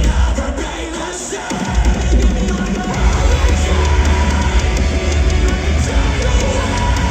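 Metalcore band playing live through a loud PA: heavy distorted guitars, bass and drums. The low end drops out briefly about half a second in, and the full band comes crashing back in just under two seconds in.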